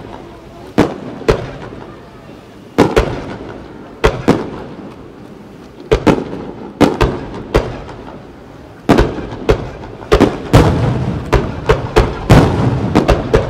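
Aerial firework shells bursting, a string of sharp bangs each trailing off in a rumble. They come every second or so at first and follow each other in quick succession in the last few seconds.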